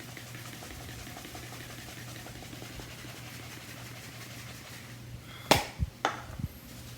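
A steady low hum, then two sharp knocks about half a second apart some five and a half seconds in, followed by a fainter one: handling knocks, likely the can of spray plastic cleaner being picked up and readied.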